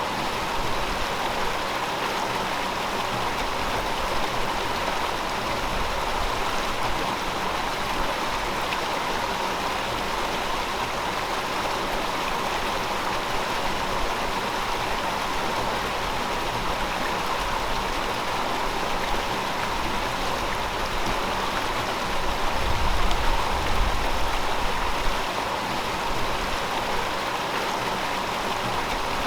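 A gentle river flowing steadily with a continuous rushing babble, swelling briefly a little louder and deeper about three quarters of the way through.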